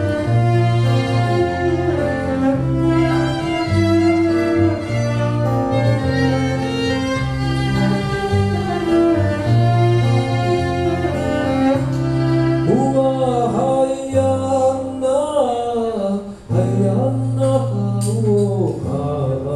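Live acoustic band music: long held instrumental notes and chords, then a voice comes in singing a wavering melody about twelve seconds in.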